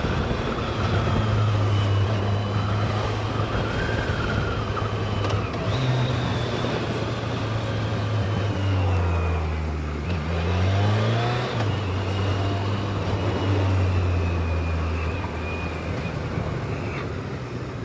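Motorcycle engine running while riding at a steady speed. About nine seconds in, its pitch drops as it slows, then climbs again as it speeds back up.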